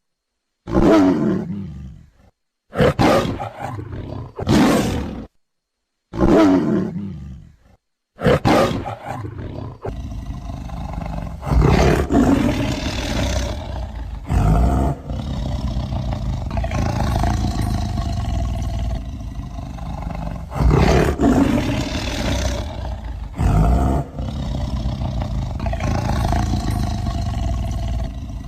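Tiger roaring: about five separate roars that fall in pitch, with short silences between them, then from about eight seconds in a continuous rough roar that swells louder every few seconds.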